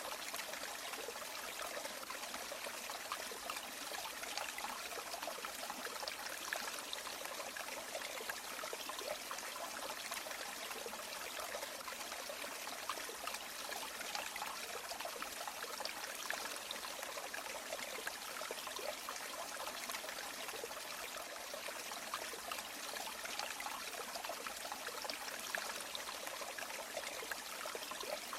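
River water flowing and trickling steadily, a continuous even rush with fine splashing detail.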